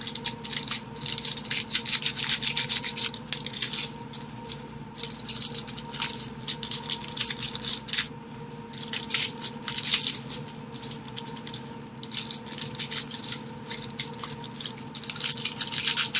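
Plastic seasoning packets crinkling and being shaken, with dried seaweed flakes and sesame seeds rattling out of them, in uneven bursts.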